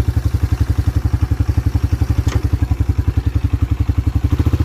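1987 Yamaha Moto-4 YFM350ER's single-cylinder four-stroke engine idling steadily with an even, rapid exhaust beat. There is one faint click about two seconds in.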